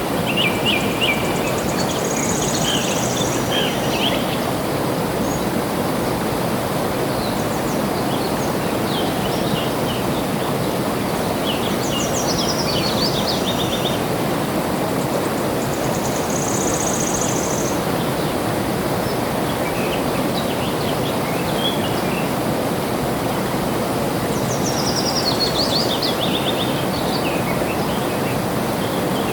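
Flowing water rushing steadily, with songbirds chirping over it in short bursts of song several times, some phrases stepping down in pitch.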